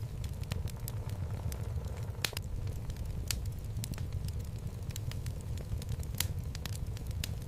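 Wood fire burning in a fireplace: a steady low rumble of flames with irregular crackles and pops from the burning logs, a couple of sharper pops among them.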